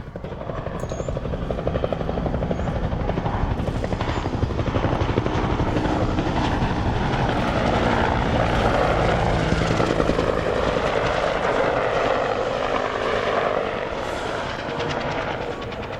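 Helicopter flying past with the rapid beat of its rotor blades. It grows louder to a peak around the middle, then fades.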